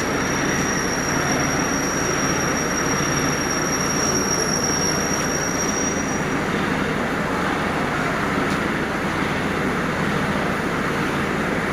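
Steady mechanical noise of heavy machinery running, with a thin high-pitched whine over it that stops about six seconds in.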